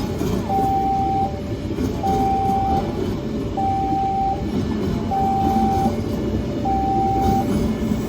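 Railway level-crossing warning alarm sounding, a repeating two-note electronic tone, a higher note then a lower one, about every second and a half, over the loud rumble of a train.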